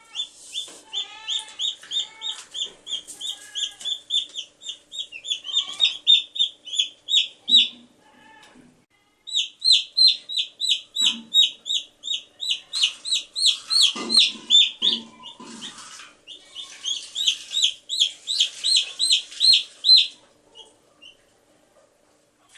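Baby chicks peeping: quick, high, evenly repeated peeps, several a second, in three bouts with short pauses about eight and sixteen seconds in. A few lower sounds mix in near the middle.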